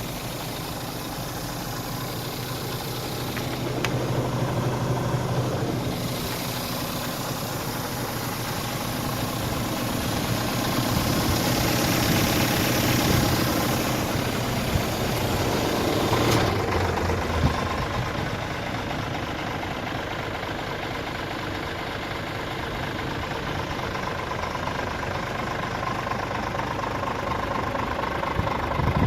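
Scania R450 tractor unit's 13-litre six-cylinder diesel engine idling steadily. There is a sharp click about sixteen seconds in.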